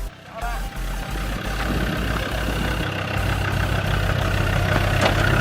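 Four-wheel-drive's engine running at low revs in low range, a steady low hum that grows gradually louder.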